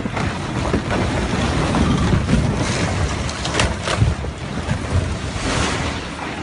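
Strong wind buffeting the microphone over the rush of rough water and waves.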